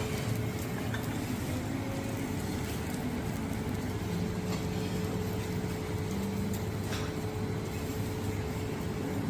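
Steady mechanical hum with one constant mid-pitched tone over a low rumble, with a few faint clinks.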